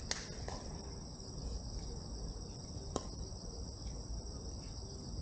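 Steady high-pitched insect chorus. Two sharp knocks cut through it, one right at the start and one about three seconds in.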